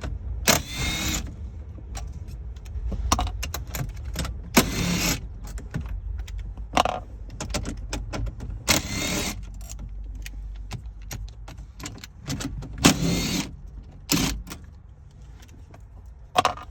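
Small cordless power driver with a 10mm socket spinning out four screws one at a time, a brief whir with a shifting pitch for each screw, with clicks and metallic rattles of the socket and screws in between.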